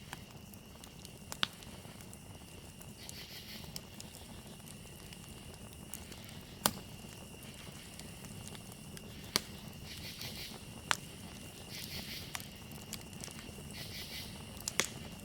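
Campfire crackling, with a low steady hiss and a few sharp pops of burning wood. Over it, crickets chirp as a steady high tone, and from about three seconds in, bursts of insect trilling come every couple of seconds.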